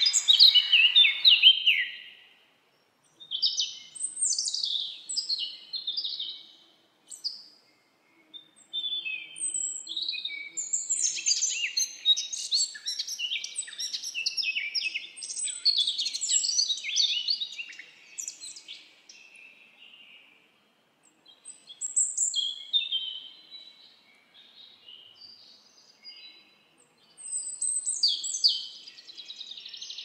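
Birds chirping and calling in phrases of quick, high, sweeping notes, broken by a few brief gaps.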